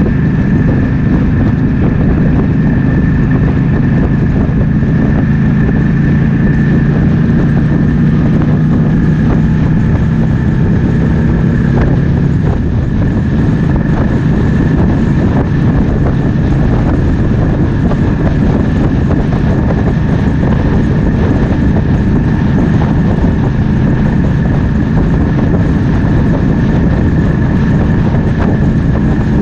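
Triumph Speed Twin 1200's parallel-twin engine running under way, with wind rushing over the microphone; the engine note changes about twelve seconds in.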